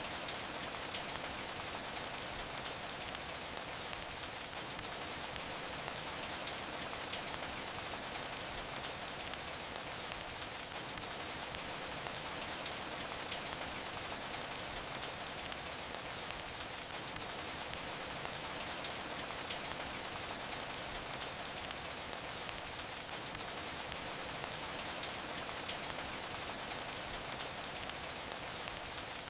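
Steady rain falling, an even hiss, with a few sharp crackles of a wood fire every few seconds.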